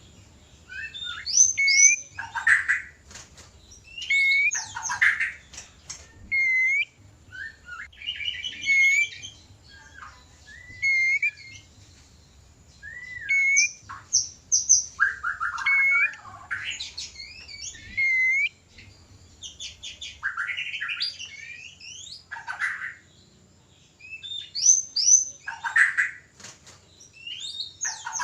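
White-rumped shamas (murai batu) giving mating-season courtship calls and song: short bursts of varied whistles, up- and down-slurred notes and rasping chatters, with short pauses between phrases.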